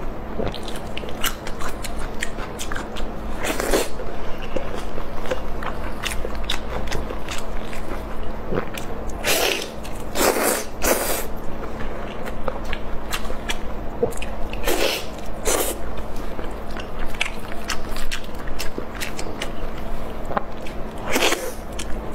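Close-miked eating of glazed lamb ribs: chewing and biting meat off the bone, with many quick wet mouth clicks and lip smacks. Several short, loud breaths of air come in between.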